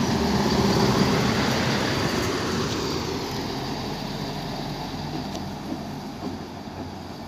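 DB Regio regional multiple unit running past close by and pulling away. Its rumble fades steadily as it moves off.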